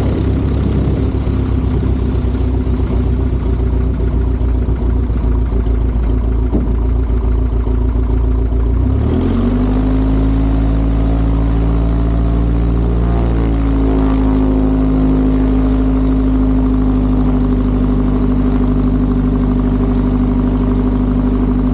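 Light-aircraft piston engine and propeller of a 1954 Cessna 170B running at low power on the ground, a steady drone whose pitch rises about nine seconds in and shifts again around thirteen seconds before holding steady.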